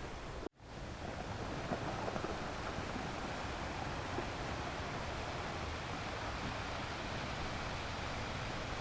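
Sea waves washing on a beach: steady surf. About half a second in, the sound cuts out for a split second and then fades back in.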